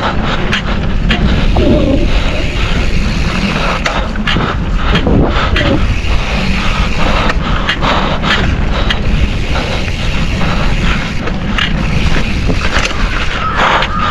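Mountain bike rolling fast down a rough dirt trail: a steady loud rush of tyres over dirt and rocks, broken by frequent sharp clatters and knocks from the bike.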